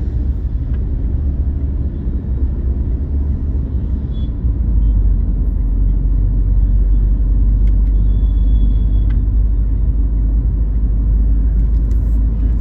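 Steady low rumble of a car on the road, with engine and road noise picked up from the moving vehicle.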